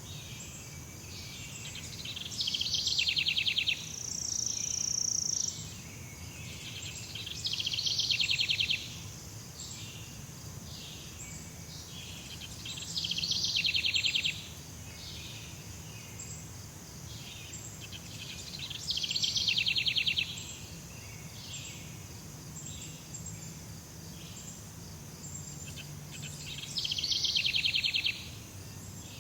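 Tropical forest ambience: a steady high insect drone with scattered short chirps, broken five times by a loud, fast-pulsed rattling call of about a second, repeating roughly every five to six seconds.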